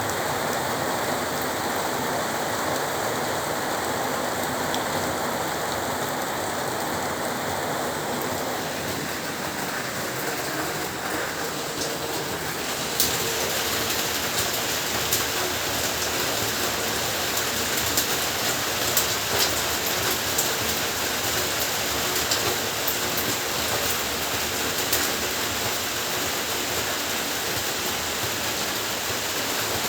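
Heavy rain falling steadily in an even hiss. About halfway through, the sound turns brighter, with sharp clicks of drops striking a hard surface.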